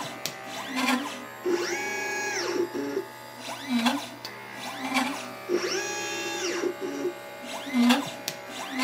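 LitePlacer pick-and-place machine's stepper motors moving the gantry through its placement cycle: a whine that rises in pitch, holds, then falls, with short lower buzzes and clicks between the moves. The cycle repeats about every four seconds.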